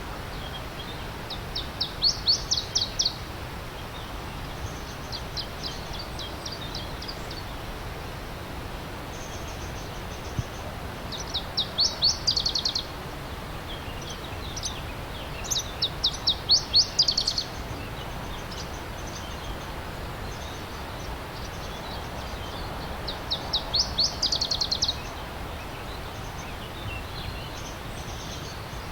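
A songbird singing short, fast trills of rapidly repeated high notes, each sweeping downward, about five phrases a few seconds apart, over the steady rush of a stream.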